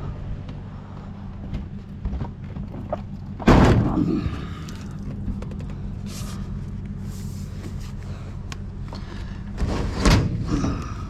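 A vehicle engine running steadily, with two loud thumps, one a few seconds in and one near the end.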